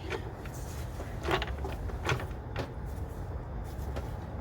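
A few light clicks and knocks of hoses and plastic engine parts being handled and pulled loose, over a steady low hum.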